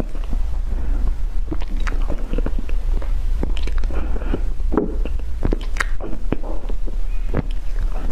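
Close-miked eating sounds: biting and chewing, with irregular sharp clicks and crunches.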